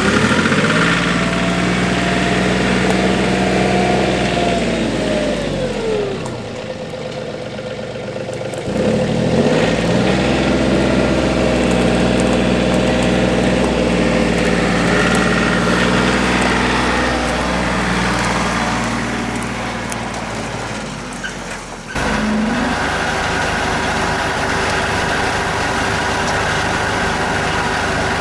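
RK 37 compact tractor's engine revving up and running, easing off about five seconds in, then revving up again and holding a steady speed. About 22 seconds in the sound changes abruptly to another stretch of steady running.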